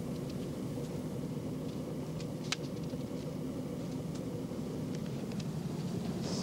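Car engine running steadily at a low hum, with a single sharp click about two and a half seconds in.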